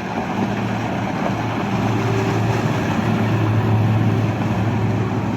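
Contender boat's engines running steadily as it passes, a low hum that builds to its loudest about four seconds in and then eases slightly.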